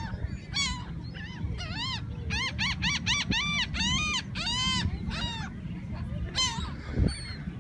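Seagulls calling: a quick run of short, arched calls, several a second, through the middle, with a few more near the start and end, over a steady low rumble.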